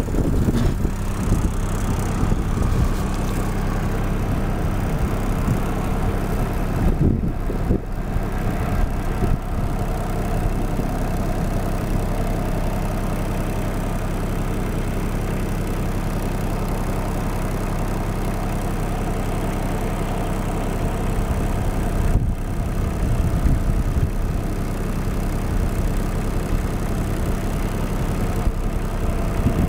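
An engine idling steadily at a constant low pitch.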